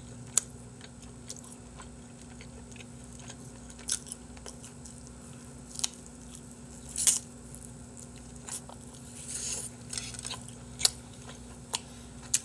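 Close-miked mouth sounds of eating sauced grilled chicken skewers: scattered wet smacks and clicks of biting and chewing, a few of them sharper. A faint steady hum runs underneath.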